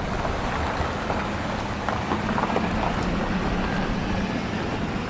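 Sea surf: waves washing in, a steady rushing noise with wind.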